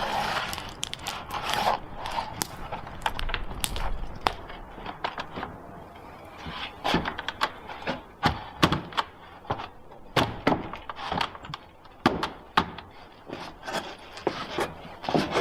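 An irregular series of sharp knocks and thuds, several a second at times, with one of the loudest about two-thirds of the way through.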